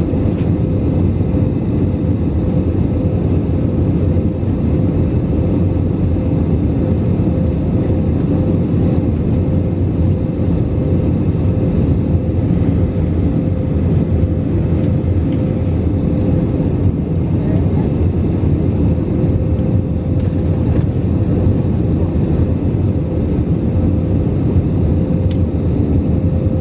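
Cabin noise inside an Airbus A319 airliner in flight on approach: a steady rush of air and engine drone with a thin, constant tone running through it.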